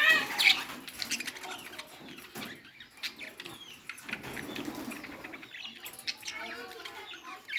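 Birds chirping and calling in short curved chirps, loudest near the start and again near the end, over scattered rustling and clicks.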